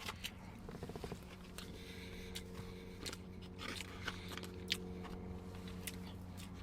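A person scooping and chewing garlic rice: scattered small clicks and scrapes of a utensil and container, with chewing, over a faint steady hum.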